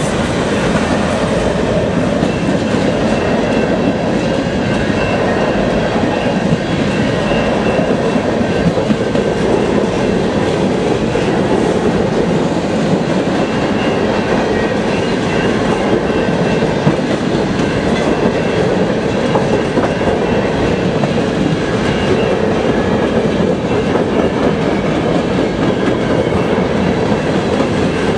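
Freight train of empty centerbeam flatcars and boxcars rolling past: a loud, steady rumble and clatter of steel wheels over the rails.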